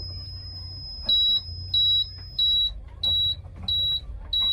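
Reversing alarm on a heavy vehicle beeping a loud high tone about one and a half times a second, starting about a second in, over the steady low rumble of a diesel engine running.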